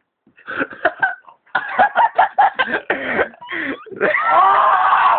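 A man's pained vocal reaction to being hit by a paintball on bare skin: a quick series of sharp gasps and grunts, then a long strained cry over the last second.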